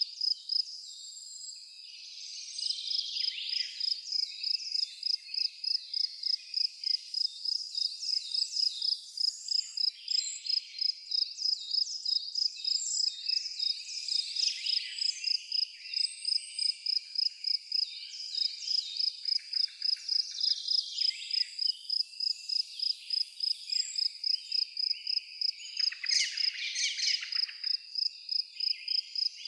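A cricket chirping steadily in high, even pulses about twice a second, with birds singing varied warbles and trills over it; the chirping stops briefly near the start.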